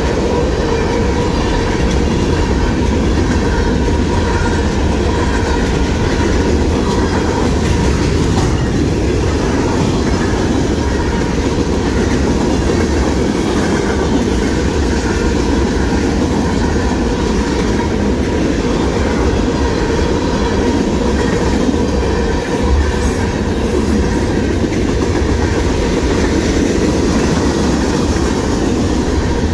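Freight train cars, tank cars and covered hoppers, rolling past: a loud, steady rumble of steel wheels running on the rails.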